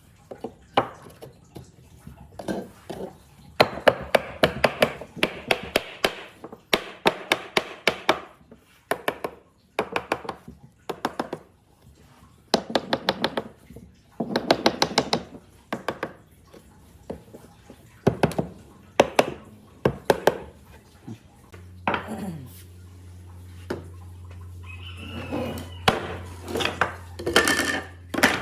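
Hand tools knocking and tapping on wood in rapid clusters of sharp strikes. A steady low hum sets in about three-quarters of the way through.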